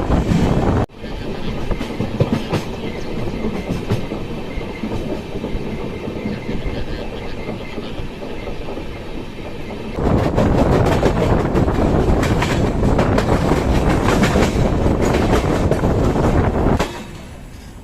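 Passenger train running along the track: a steady rumble with wheels clacking over the rails. The sound changes abruptly about a second in, grows louder from about ten seconds in, and drops suddenly near the end.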